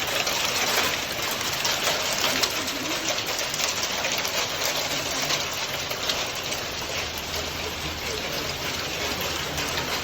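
Hail coming down with rain, a dense, steady patter of countless small stones striking hard surfaces.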